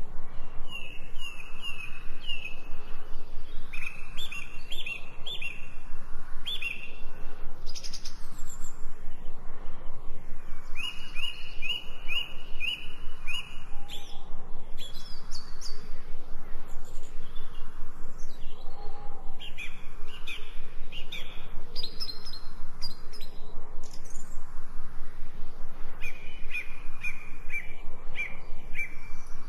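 Songbirds chirping: phrases of short, high notes repeated quickly, about four a second, one phrase after another.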